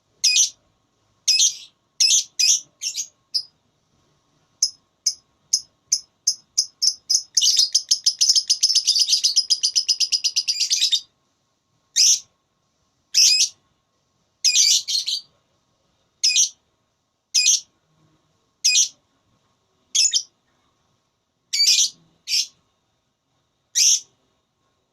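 Lovebird calling: sharp, shrill chirps that speed up into a long rapid chattering trill (the 'ngekek') lasting about three and a half seconds, then single chirps roughly every second.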